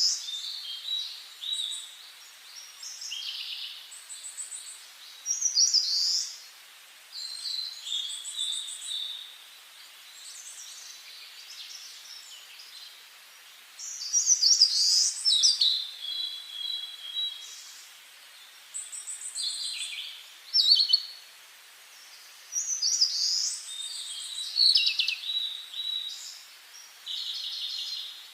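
A songbird singing: a series of varied high phrases with quick trills and runs of notes, each a second or two long, with short pauses between them.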